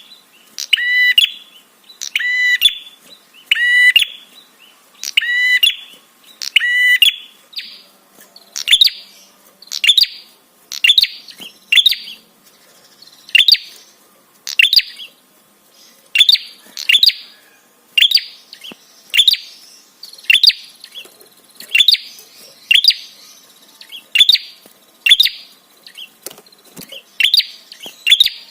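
Prenjak songbird calling: sharp call notes repeated about once a second. About eight seconds in, the notes change from a fuller, lower call to thinner, higher chirps.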